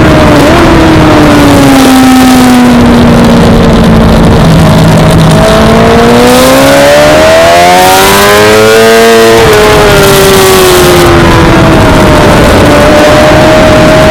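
Suzuki GSX-R600 inline-four sport bike engine at racing revs. The pitch sinks for a few seconds, then rises steadily for about four seconds under acceleration, breaks off near the middle and drops back, then holds steady near the end. It is loud throughout.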